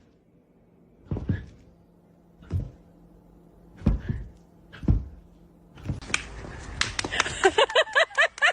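Four dull thumps a second or so apart over a faint hum, then near the end a rapid run of clucking from chickens.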